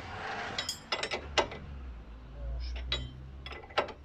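A few sharp metallic clicks and clinks of hand tools, about a second in and again near the end, over a low steady hum.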